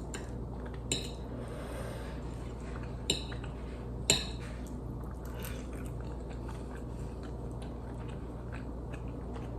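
Someone eating noodles and egg: quiet chewing, with three short clicks of a utensil against the bowl, about one, three and four seconds in, over a steady low hum.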